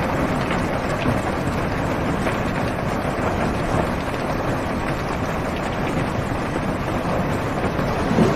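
Heavy rain falling on a car's roof and windows, heard from inside the car as a steady, even hiss. Near the end a low rumble of thunder begins to swell.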